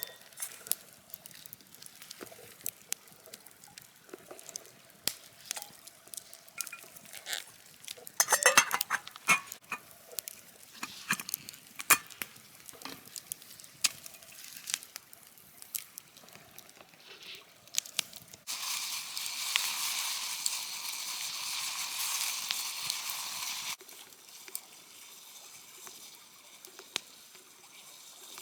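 Campfire cooking: scattered clicks and clinks of utensils and crackling, then a steady sizzle of food frying in a pan for about five seconds, starting about two-thirds of the way in and cutting off abruptly.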